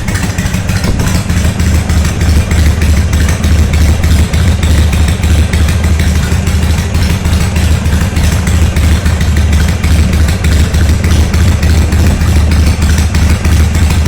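2004 Harley-Davidson Sportster XL883's air-cooled 883 cc V-twin idling through custom-made open exhaust pipes, loud with a steady, even pulse.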